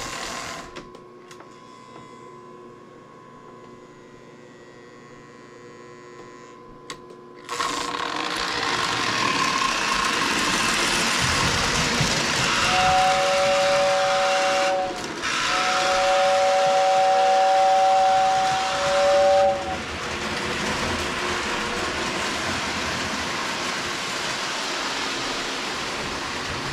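Lionel 736 Berkshire O-gauge model train pulling away about seven seconds in and running steadily around the track, its motor and wheels making a loud continuous rush. The 2671WX tender's electric whistle blows twice over it, a two-note chord, first about two seconds long and then about four.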